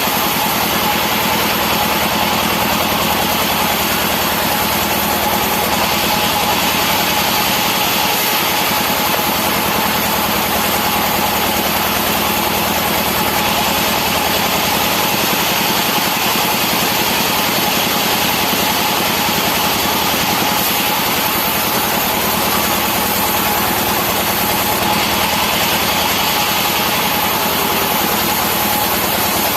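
Sawmill saw machinery running steadily: a constant engine drone with a steady whine over it. In a few stretches the sound turns brighter and hissier, as the blade cuts through the wood being sliced for pallet boards.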